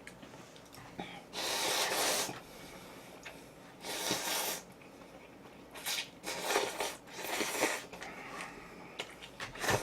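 Close-miked mouth noises of a person eating: five breathy bursts, each under a second, with soft clicks between.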